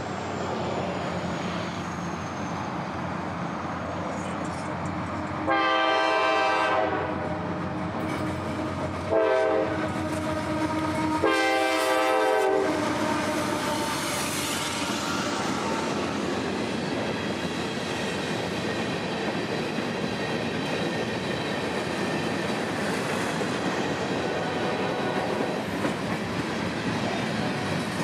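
CSX freight train led by a pair of CM44AC diesel locomotives approaching and passing close. The horn sounds three times, long, short, long, between about five and thirteen seconds in. The engines, then the freight cars, keep up a steady rumble with the wheels clacking on the rails.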